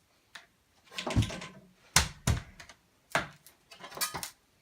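Old wooden window molding being pried loose with a flathead screwdriver: a series of sharp knocks and cracks as the wood and nails give way.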